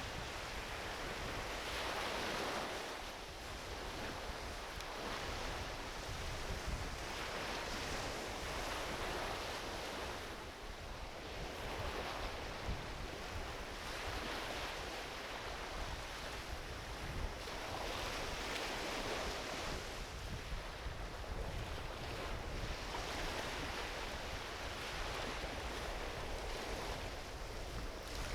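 Small ocean waves washing onto a beach in slow surges, swelling and ebbing every five or six seconds, with a few faint pops from a driftwood campfire.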